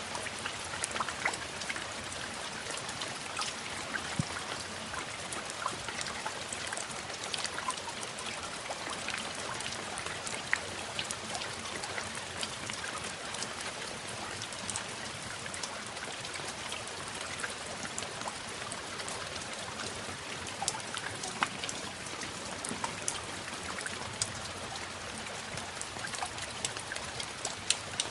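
Steady rain falling, with a constant hiss and many small drop ticks scattered through it.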